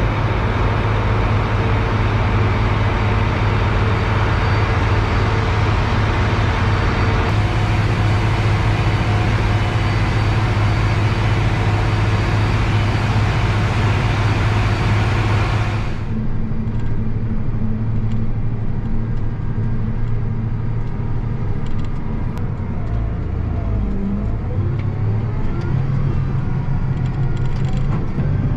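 Diesel engine of heavy farm machinery running steadily with a constant low drone and a loud hiss. About sixteen seconds in the sound changes abruptly to a duller, less hissy engine note.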